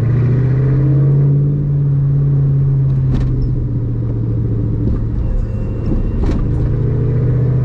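Car engine droning steadily while driving, its pitch rising a little over the first second or so, then easing off and holding. Two sharp clicks come about three and six seconds in.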